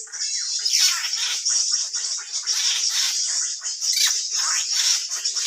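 Busy, chattering drongo calls with many quick downward-sweeping notes over a steady high hiss: a lure recording of an agitated drongo, played to draw birds to the glue sticks.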